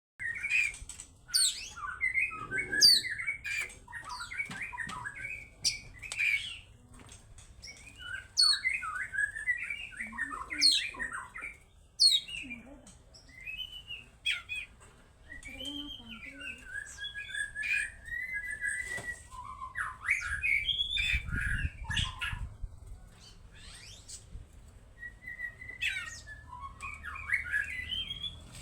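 Oriental magpie-robin (kacer) singing: a long, varied song of quick whistled notes, twittering runs and harsh chattering notes, delivered in phrases with short pauses between them.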